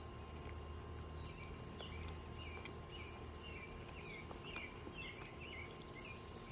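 Birds chirping: a quick run of short, twisting chirps from about a second in until near the end, over a steady low hum.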